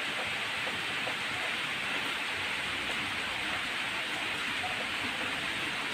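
A steady hiss of even noise, with a few faint small ticks and no change in level.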